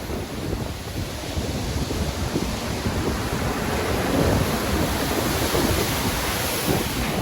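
Stormy sea waves breaking and surging, with wind gusting across the microphone; a wave swells louder about four seconds in.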